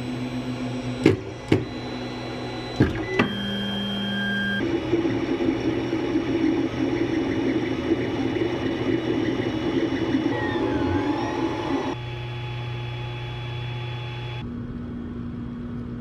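Ender 3 3D printer printing: its stepper motors hum and whine in steady tones that jump to a new pitch every few seconds as the moves change. There are a few sharp clicks in the first few seconds.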